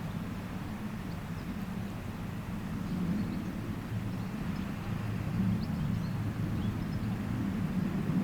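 Diesel locomotive engines running with a steady low rumble that grows slightly louder about three seconds in.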